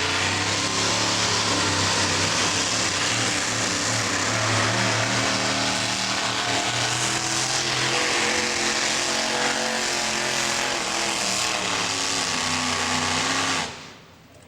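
Super modified four-wheel-drive pulling truck's engine running hard under load during a pull, its pitch wavering. The sound cuts off sharply near the end. The commentator thinks it was running on only about seven cylinders some of the time, a sign of a misfire.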